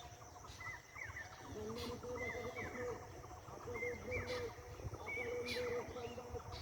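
Outdoor rural ambience: birds calling over and over in short repeated phrases, with a steady high insect drone throughout and a few sharp clicks.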